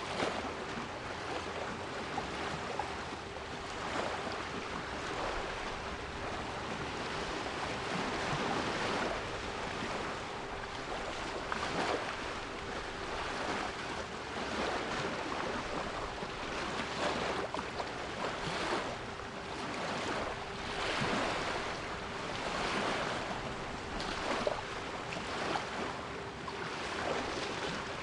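Sea waves washing and surging in a noisy hiss that swells and ebbs every few seconds, with a steady 396 Hz pure tone held underneath.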